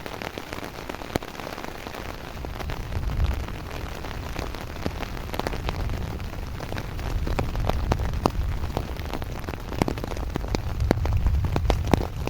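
Steady rain during a thunderstorm, with many single heavy drops striking close by as sharp taps. A low rumble runs underneath and grows louder in the second half.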